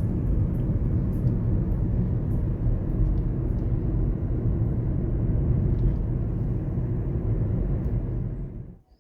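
Steady low rumble of wind and road noise from a vehicle on the move, cutting off abruptly near the end.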